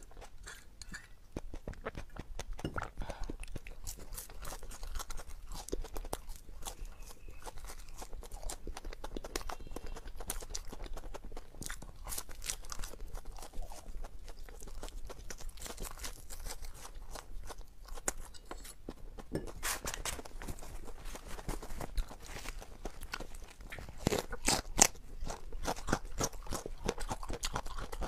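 Close-miked eating sounds: a person chewing and crunching food with many small crackly clicks, the loudest and sharpest crunches coming near the end.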